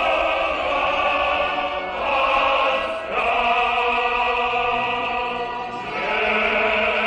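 Choir singing long held chords, which change about two, three and six seconds in.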